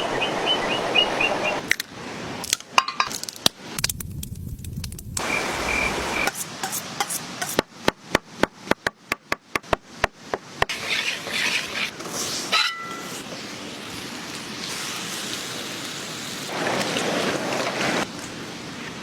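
Kitchen food-preparation sounds: scattered clinks and taps of utensils, a run of about a dozen quick, even knocks near the middle, and stretches of hissing.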